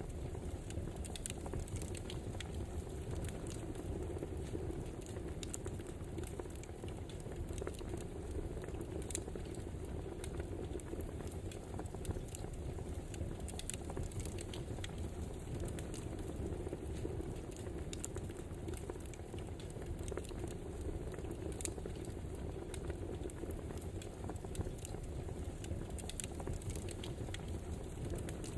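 Wood fire crackling: a steady low rush with frequent small pops and snaps scattered throughout.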